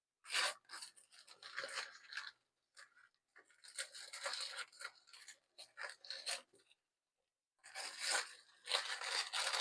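Paper sandwich wrapper being torn and unwrapped, with irregular bursts of rustling and crackling and a short pause about seven seconds in.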